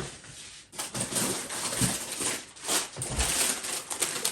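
Plastic noodle packet crinkling and rustling as it is handled, starting about a second in.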